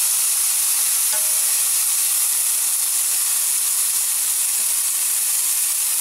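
Chicken breast, eggplant slices and onion halves sizzling steadily in a ceramic grill pan with almost no oil.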